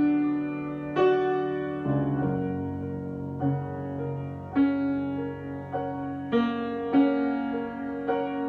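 Solo piano improvisation: slow chords struck about once a second and left to ring.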